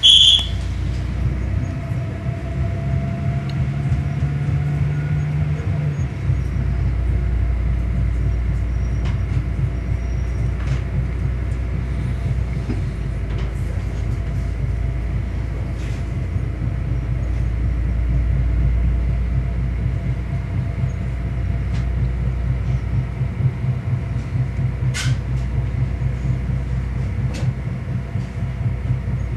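Regional passenger train pulling out of a station, heard from inside the carriage: a steady low rumble of the running gear and drive, with a few sharp clicks as the wheels cross points and rail joints. A short sharp sound at the very start, and the low drone deepens about six seconds in.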